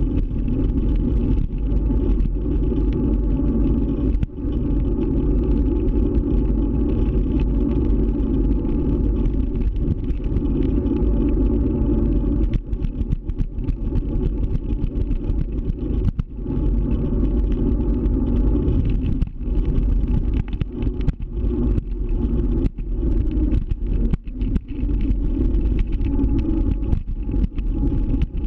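Steady rumble of riding a scooter, with road and wind noise dominant and a faint steady motor tone under it; the level dips briefly many times in the second half.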